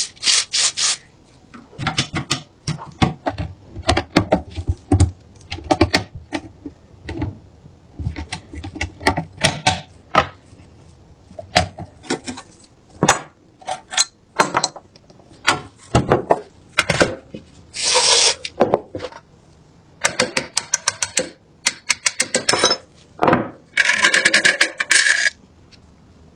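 Rusted metal gun parts and hand tools clicking, clinking and knocking in quick, irregular taps. There are two longer stretches of scraping, about two-thirds of the way in and near the end.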